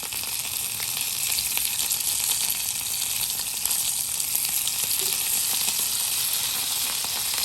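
Dried galunggong (round scad) fish frying in hot oil: a steady sizzle with small crackles and pops.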